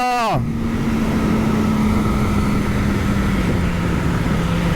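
Yamaha R6 inline-four sport-bike engine running at steady revs while riding, with wind and road rush over the rider's mic; the engine note drops slightly about three and a half seconds in.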